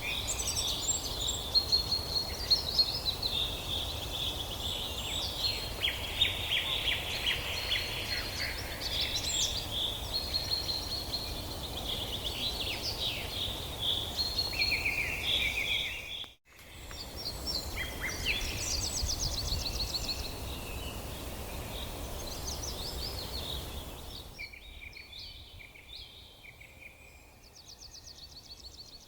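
Several songbirds chirping and trilling, many overlapping calls, over a steady outdoor background hiss. The sound drops out for an instant about two-thirds of the way through, and near the end the background hiss falls away, leaving fainter birdsong.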